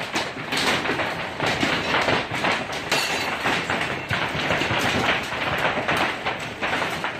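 Hailstorm: a dense, rapid clatter of hailstones striking hard surfaces, cutting off abruptly at the end.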